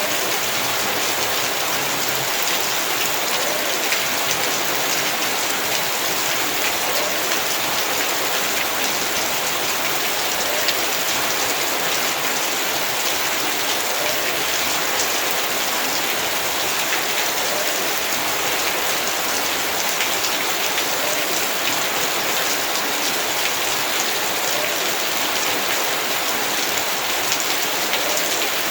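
Heavy rain falling steadily, with a dense patter of drops hitting the ground and surfaces and no break or change.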